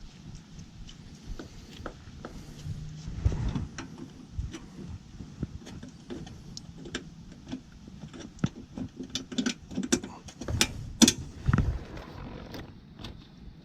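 Irregular clicks, taps and knocks of a bolt and hand tools being handled while a battery charger is bolted into a generator, with a few louder knocks about three seconds in and again near the end.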